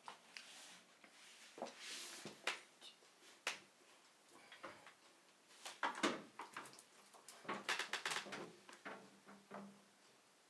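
Hands working on a washing machine motor during a carbon-brush change: scattered clicks, knocks and short scrapes from handling the parts and tools, with a quick cluster of clicks about six seconds in and another near eight seconds.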